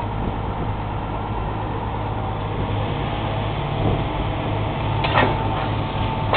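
Tractor engine running steadily, with a sharp metallic clank about five seconds in.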